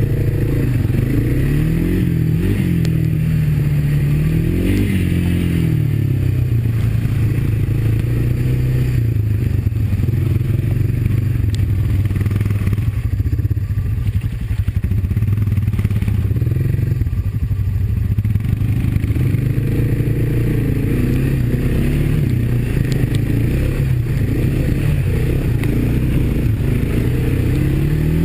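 Honda ATV's single-cylinder four-stroke engine running while riding, its pitch rising and falling with the throttle a few times, most clearly about two and five seconds in and again near the end, with a steady drone in between.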